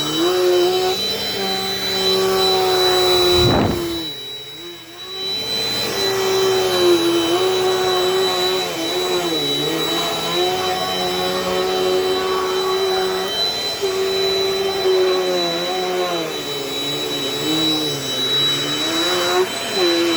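Dirt Devil Dynamite Plus upright vacuum cleaner running, its motor whine dipping in pitch and recovering again and again as it is worked over the floor. There is a thump about three and a half seconds in, and the sound drops briefly just after it.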